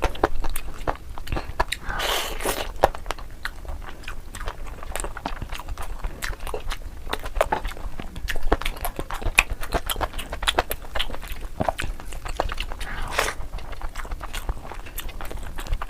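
Close-miked eating of tandoori chicken, sped up: rapid wet chewing and biting with crunchy, crackly clicks, and two longer tearing or slurping smears, one about two seconds in and one near the end.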